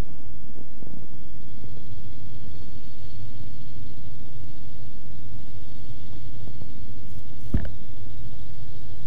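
Cessna 172's piston engine and propeller droning steadily in flight, heard from inside the cockpit. A single short knock sounds about seven and a half seconds in.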